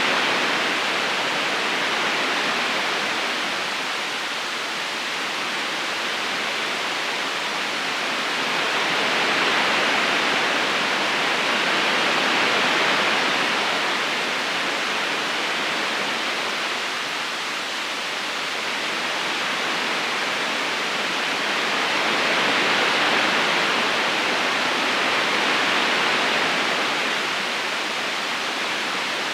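River current running steadily over stones, a continuous rush of water that slowly swells and eases.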